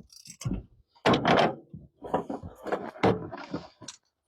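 Several short knocks and clunks during spark plug work on a truck engine, with pauses between them.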